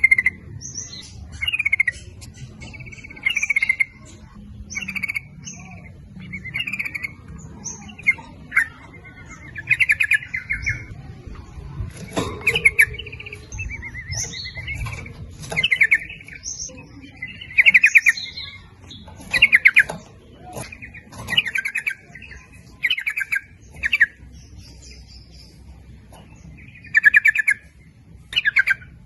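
Yellow-vented bulbul (trucukan) singing: short, bubbly, warbling phrases repeated every second or two, with thinner high notes in between.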